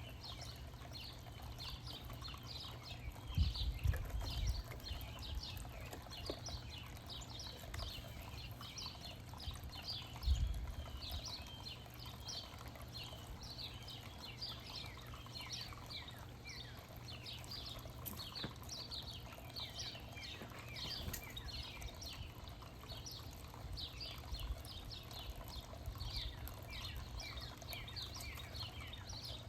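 Many small birds chirping at once: a steady chatter of short, quick, high notes overlapping one another. Two brief low rumbles come through, about three to four seconds in and again about ten seconds in.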